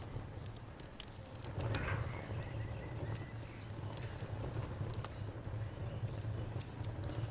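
Campfire crackling with scattered sharp pops, over crickets chirping in a steady, fast, even pulse and frogs croaking low.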